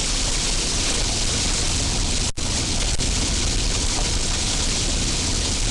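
Steady loud rushing noise inside a car driving through a storm: tyres, wind and rain on the vehicle. The sound cuts out for an instant a little over two seconds in.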